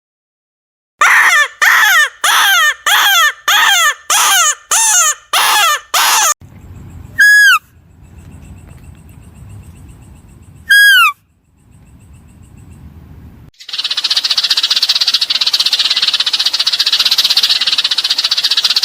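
Animal calls: a run of nine short calls, each falling in pitch, at a bit under two a second, then two single sharp calls a few seconds apart. Near the end a steady high-pitched hiss-like sound starts up.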